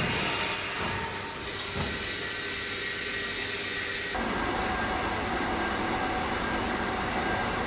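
Luggage vacuum forming machine running: a steady mechanical hiss and hum, which shifts to a fuller, louder noise about four seconds in.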